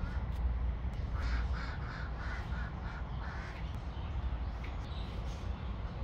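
A bird calling from the trees in a quick run of about seven notes, roughly three a second, over a steady low rumble, with a faint high chirp later on.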